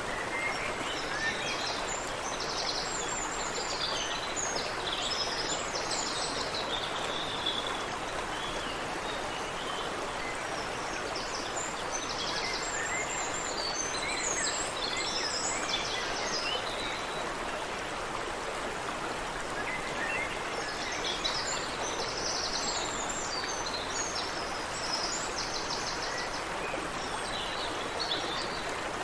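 Water running steadily in a stream, with small birds calling and trilling above it in spells, and a few seconds' lull in the birdsong about two thirds of the way through.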